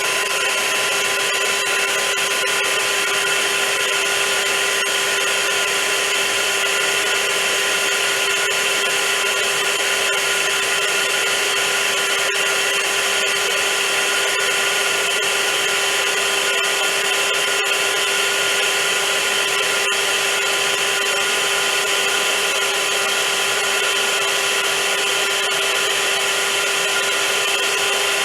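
Vacuum cleaner running steadily: an unchanging motor drone with a steady whine over a loud even hiss of rushing air.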